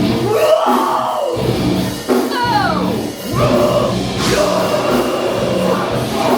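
Live rock band playing loud, with a singer's voice over guitar and drums.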